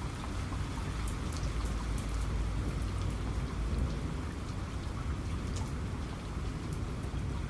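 Steady heavy rain falling, with individual drops striking close by as sharp, scattered ticks over a deep, constant rumble.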